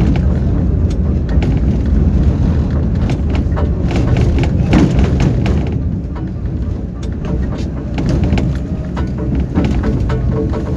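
Tram running along the track, heard from inside the car: a steady low rumble with frequent knocks and rattles from the wheels and body.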